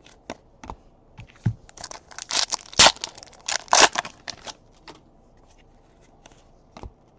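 Trading cards being handled: a run of short rustles and flicks of card stock, busiest about two to four seconds in, then dying away.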